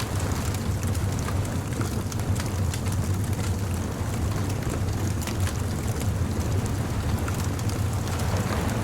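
Bonfire crackling, a scatter of sharp pops and snaps over a steady low rumble.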